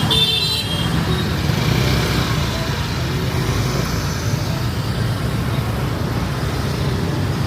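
Street traffic: a steady rumble of passing engines, with a brief high-pitched tone in the first second.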